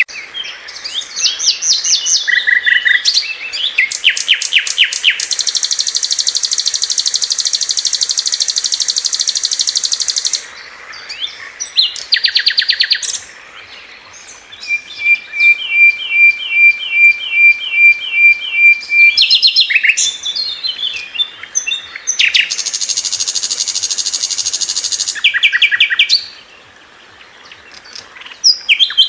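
Sikatan londo, a songbird of the flycatcher family, singing a loud, varied song. It moves through fast trills, long buzzy rattles lasting several seconds, and a run of about a dozen evenly spaced sharp notes, with a short pause near the end.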